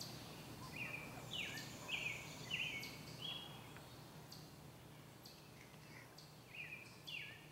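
A songbird singing: a run of about four short, repeated whistled notes about a second in, and another short run near the end, over a faint steady low hum.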